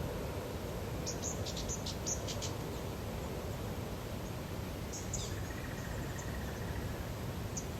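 Natural lakeside ambience: a steady low background rumble and hiss, with clusters of short, high-pitched chirps from small wildlife, several about a second in and a few more around five seconds in, one of them sliding down in pitch.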